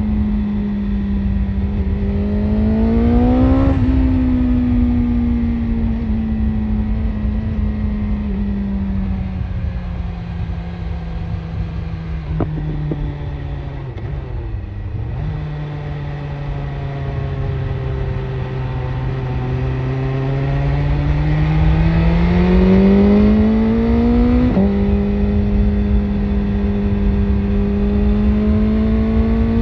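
BMW S1000RR inline-four engine through an Akrapovic exhaust, pulling under load with the revs climbing and easing off. Near the end the revs rise steadily and then drop sharply on an upshift before climbing again. Wind rushes low on the microphone.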